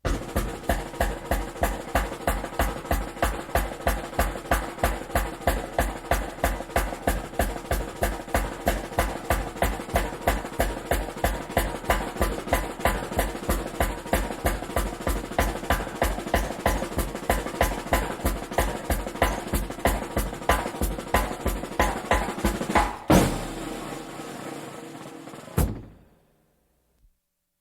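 Drum kit playing a fast, steady run of snare and bass drum hits, about four a second. It ends with a crash about 23 s in that rings on, then one last hit and a fade to silence.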